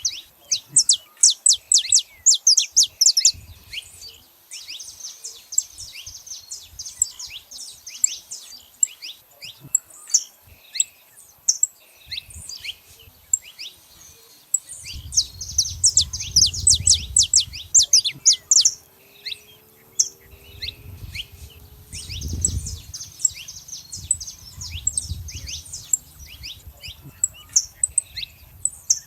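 Many saffron finches chirping and calling together, a dense run of short, sharp, high notes overlapping. About halfway through, a low rumble comes in twice for a few seconds under the birds.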